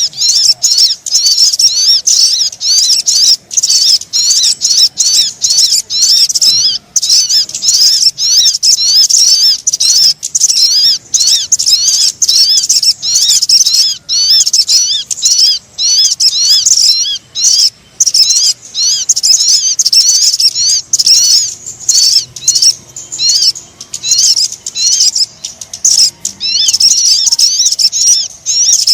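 Sogon bird lure call (suara pikat): a dense, rapid stream of high chirps and twitters that runs almost unbroken, with only brief short gaps.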